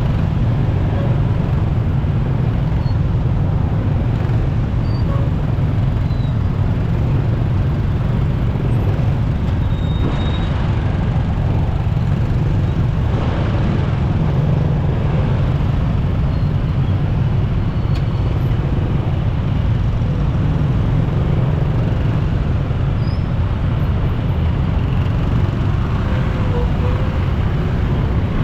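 Motorcycle riding through busy city traffic: a steady, loud rush of wind and road noise with surrounding vehicles, unchanging throughout.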